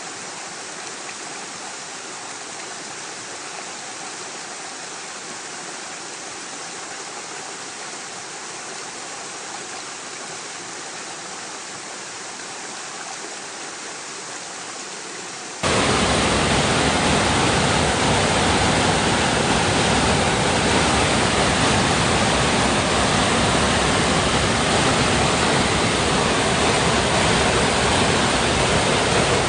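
Steady rush of water running against rocks. About halfway through it suddenly becomes much louder and fuller, with more low rumble, and stays that way.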